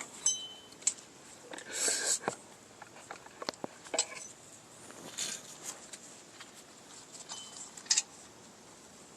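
Irregular light metallic clinks, ticks and short scrapes of brake springs, hardware and hand tools being worked on a pickup's rear drum brake assembly, with a sharper clink about eight seconds in.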